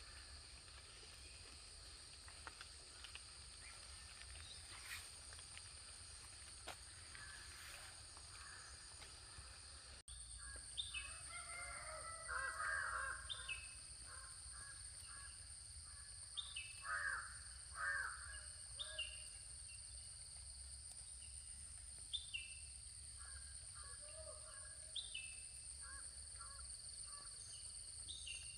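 Outdoor bird ambience: crows cawing several times, mostly in the second half, with another bird repeating a short falling call every few seconds over a steady high-pitched drone. There is an abrupt change in the background about ten seconds in.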